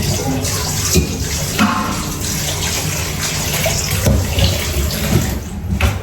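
Tap water running and splashing as a cracked coconut is washed under it, with a few light knocks of the shell.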